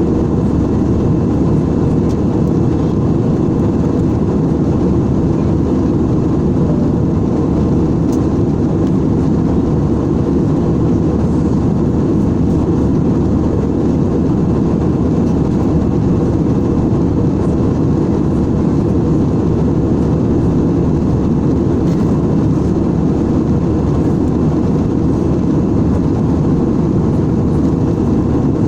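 Airliner cabin noise in flight: a steady, low rush of engine and airflow noise that does not change.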